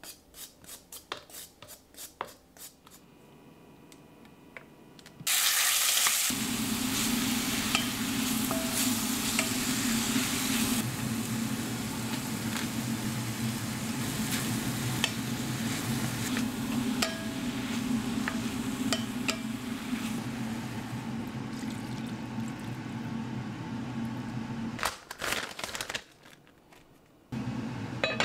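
Burdock root being shaved in quick scraping strokes, then, about five seconds in, pork and burdock start sizzling loudly in a pan as they are stir-fried, with scattered clicks of a wooden spatula against the pan. The sizzle drops out near the end.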